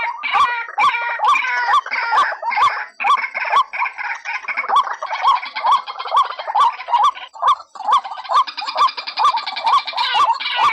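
White-breasted waterhens calling: a rapid, unbroken run of repeated notes, about two to three a second, with more calls overlapping. The run breaks off briefly about three-quarters of the way in. It is a lure call used to draw the birds in.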